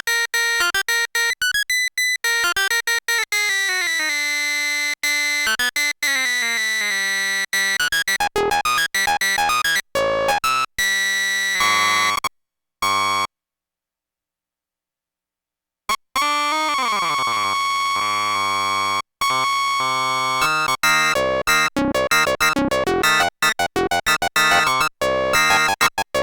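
Sequential Circuits Prophet-5 Rev 2 analog polyphonic synthesizer playing sustained notes and chords, with falling pitch sweeps and sharply gated notes. The sound stops for about three seconds in the middle, with one short blip, then starts again.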